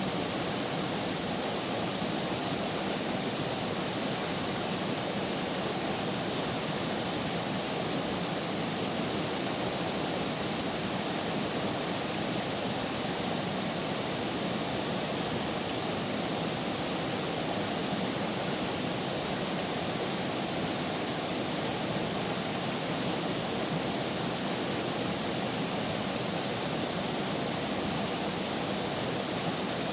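Steady rush of river water flowing, an even, unbroken noise without splashes or distinct events.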